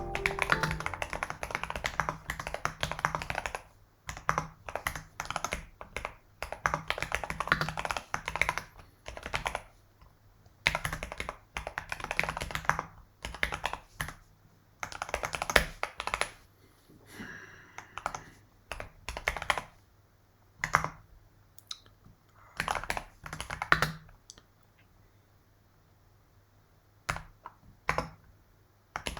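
Typing on a computer keyboard: bursts of rapid keystrokes broken by short pauses, with a longer pause about three-quarters of the way through.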